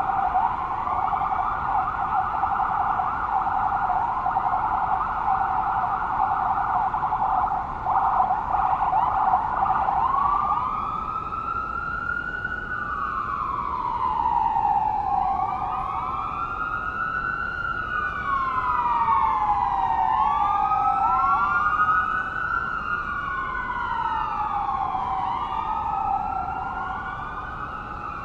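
Electronic police siren on a rapid yelp that switches about ten seconds in to a slow wail, rising and falling every four to five seconds, with layered, overlapping wails.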